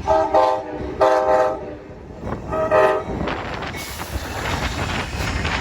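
Diesel locomotive air horn sounding three blasts: two longer ones and then a shorter one. The rumble of the approaching train follows.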